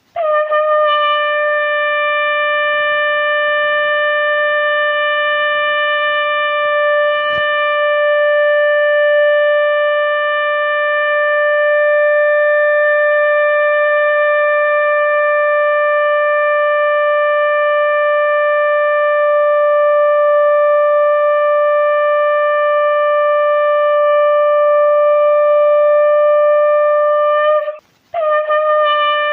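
Conch shell (shankh) blown in one long, steady note held for about 27 seconds, a single pitch with strong overtones. It breaks off briefly near the end and a second blast begins at once.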